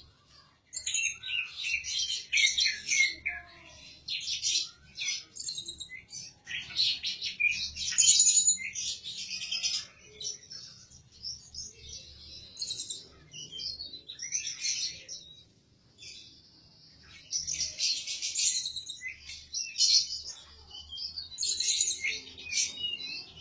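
Songbird singing in bursts of rapid, high-pitched chirps and trills, phrase after phrase, with brief pauses between them.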